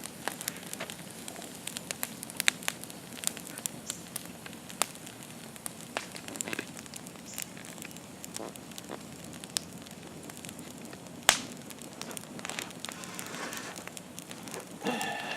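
Wood campfire crackling, with irregular sharp snaps and pops over a low hiss; one pop about eleven seconds in is clearly louder than the rest.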